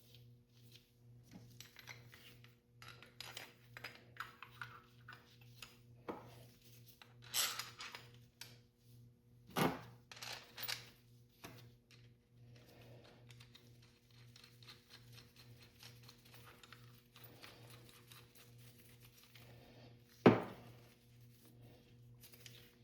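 Metal tools and parts clinking and clattering on a workbench, with louder clanks about seven and ten seconds in and one sharp clank near the end, over a steady low electrical hum.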